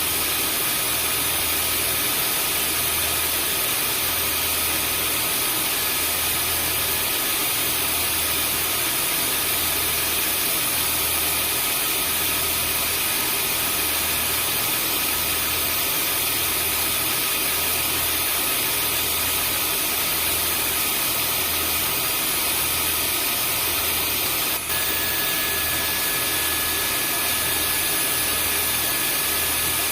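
Vacuum cleaner motor running steadily: an even rush of air with a thin whine over it and a slow low throb about once a second. About 25 seconds in there is a brief click, and after it a faint extra tone sits in the whine.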